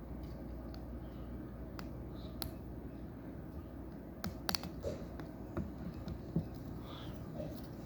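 Plastic Lego pieces clicking as they are handled and pressed together, a few scattered sharp clicks with a cluster in the middle, over a steady low hum.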